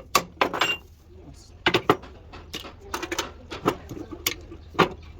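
Metal tools clinking and knocking in an irregular series of about a dozen sharp strikes, typical of hand tools being worked on a truck wheel.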